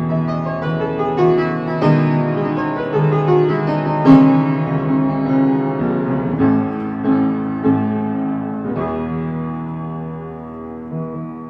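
Instrumental song passage led by piano, chords changing about once a second and easing off in the last few seconds.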